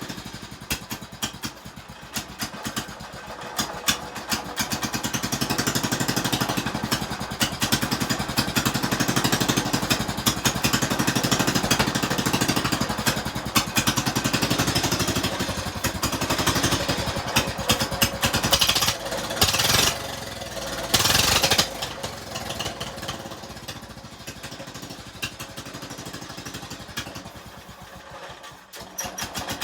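Small tractor engine running in rapid, even pulses. It grows louder through the first half, gives two loud, noisy bursts of about a second each about two-thirds of the way in, then dies down.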